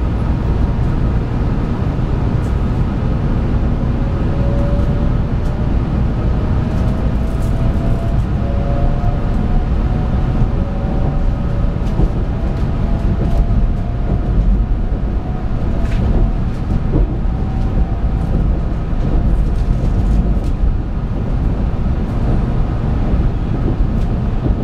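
Shinkansen 700 series 7000 train pulling away and accelerating, heard from inside the car: a whine from the traction motor drive rises steadily in pitch from a few seconds in, over a constant low running rumble.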